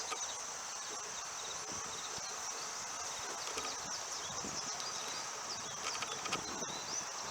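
A steady, high-pitched insect chorus, such as crickets, with a few faint short chirps in the middle.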